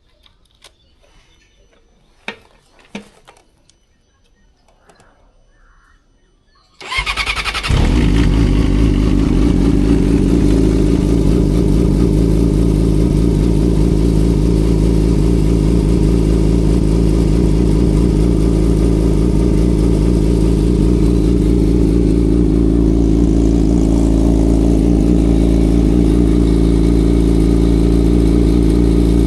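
Yamaha R6 inline-four sport bike engine started: two clicks, then a brief crank about seven seconds in, catching at once and settling into a loud, steady idle.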